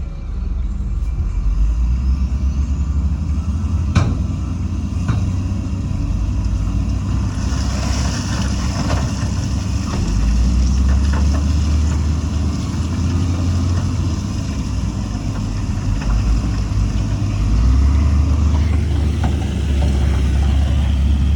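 Heavy diesel earthmoving equipment running, a deep engine rumble that swells and eases, with a sharp knock about four seconds in and a high hiss from about seven seconds in.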